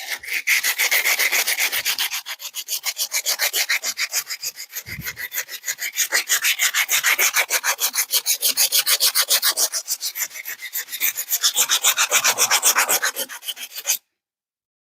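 80-grit emery cloth scrubbed fast back and forth against rusty steel, about five strokes a second, cleaning rust out of tractor bucket-pin bracket holes. The scrubbing stops suddenly near the end.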